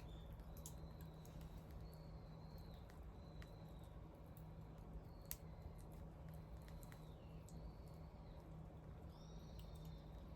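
Wood bonfire crackling faintly, with sparse sharp pops. A thin high whistle comes and goes about once a second, and a low steady hum runs underneath.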